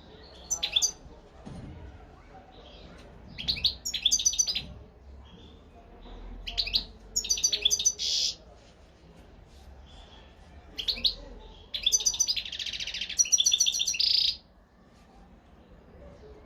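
European goldfinch singing: bursts of quick twittering notes in four phrases a few seconds apart, the longest near the end running into a buzzy trill.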